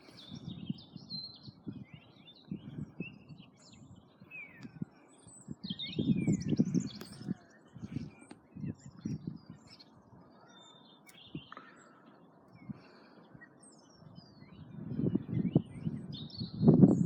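Small songbirds chirping and calling, many short tweets and whistles. Bursts of low rumble come and go, loudest near the end.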